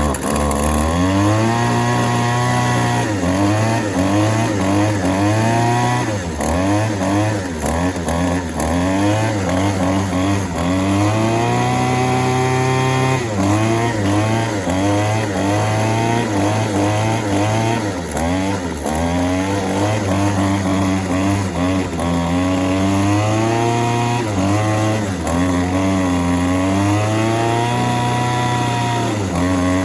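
Yardworks 25cc two-stroke string trimmer engine running on a newly fitted carburetor that is being adjusted, its throttle opened and closed over and over so it revs up and drops back toward idle, now and then held at high revs for a second or two.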